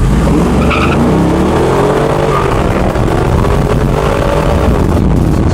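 V8 engines accelerating hard from a launch, loud, with the pitch climbing for several seconds and dropping near the end as a gear changes.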